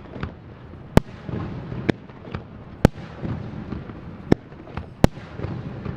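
Aerial fireworks shells bursting: about seven sharp bangs, roughly one a second, with a low rumbling in between.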